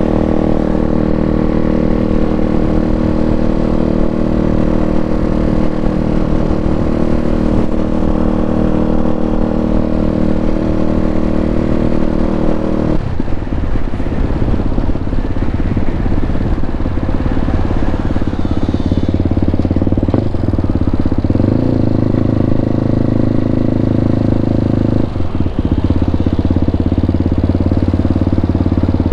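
KTM RC390's single-cylinder engine through an Akrapovic full exhaust system, riding at steady revs. About halfway the revs change and the note goes rough. It then rises and settles into a steady drone again.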